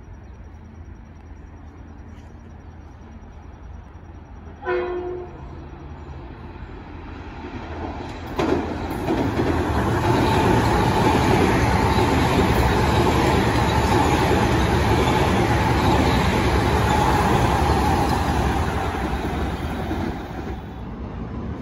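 Electric commuter train sounds one short horn blast about five seconds in while still approaching. It then goes by: a loud, steady rumble of wheels on rail with a steady whine, which fades near the end.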